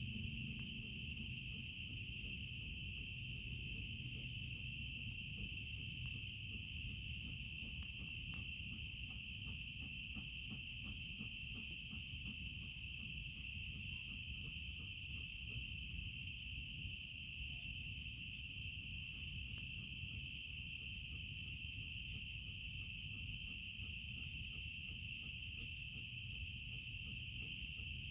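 Steady, unbroken chorus of night insects trilling at a high pitch, over the low rush of a small campfire with scattered faint crackles.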